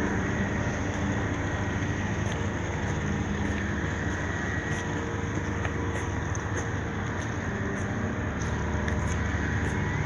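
Steady low engine rumble with a faint hum, unchanging throughout, with scattered faint ticks above it.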